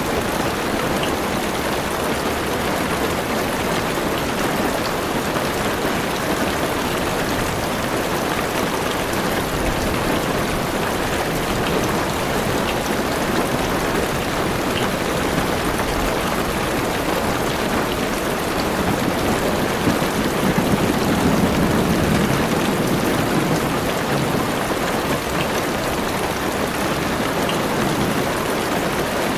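Heavy rain falling steadily on a car's roof and windows, heard from inside the car. About two-thirds of the way through, a low rumble of thunder swells up and fades.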